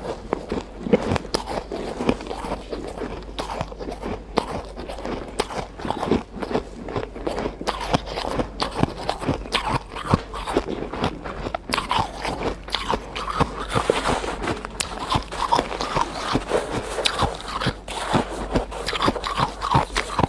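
Close-miked crunching and chewing of ice: a steady run of dense, irregular crunches and crackles as mouthfuls of crushed and shaved ice are bitten and chewed.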